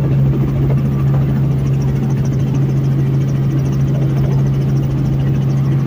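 Helicopter in flight: a steady low drone of engine and rotor with a fast, even beat, heard from inside the cabin.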